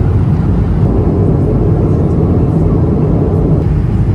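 Steady cabin noise of an Airbus A220-300 in cruise: the drone of its Pratt & Whitney PW1500G geared turbofans and airflow over the fuselage, a constant low rumble with no changes.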